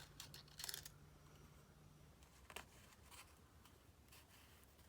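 Near silence with a few faint, short rustles and taps of paper card being handled and shifted into place.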